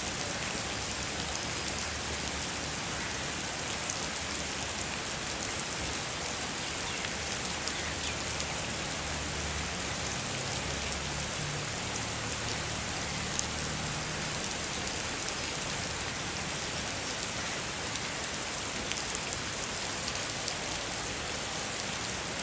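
Steady heavy monsoon rain, a dense even hiss with individual drops ticking sharply on nearby surfaces.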